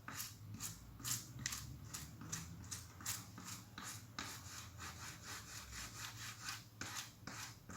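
Soft-bristled toothbrush scrubbing wet transfer paper off a copper circuit board soaked in caustic soda, in faint even back-and-forth strokes about two to three a second; the paper is dissolving away to leave the toner traces.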